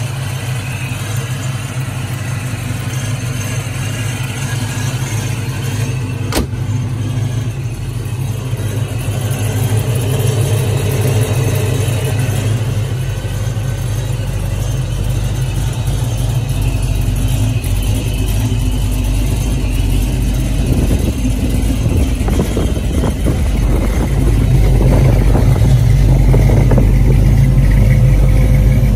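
ProCharger F1 supercharged big-block V8 idling steadily with a deep, even exhaust note, getting louder near the end.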